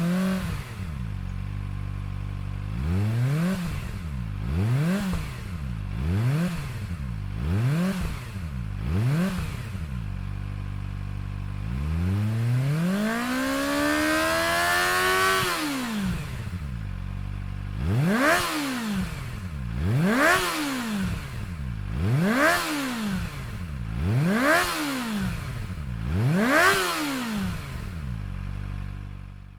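Kawasaki Ninja ZX-25R's 250 cc inline-four revved while standing, through a Yoshimura HEPTA FORCE TSS slip-on cyclone muffler. It settles to idle, is blipped five times in quick succession, gets one longer, slower rev, then five more quick blips, and idles until it cuts off.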